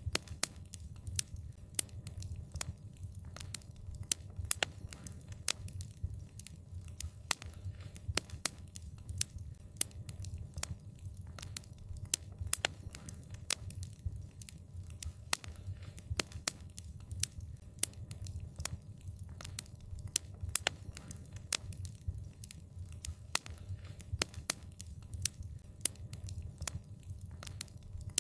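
Wood fire crackling: frequent irregular sharp pops and snaps over a low steady rumble of the burning fire.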